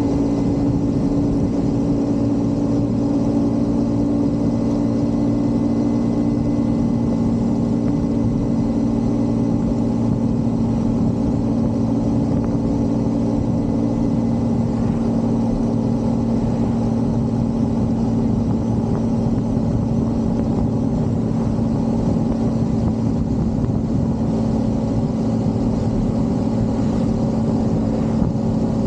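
Motorcycle engine running steadily at cruising speed, a constant drone with road and wind noise; one of its tones drops away about halfway through.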